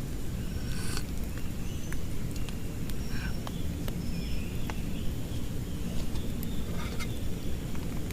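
Heavy rain falling: a steady low rush with scattered sharp drip clicks. A few short high chirps from animals sound through it.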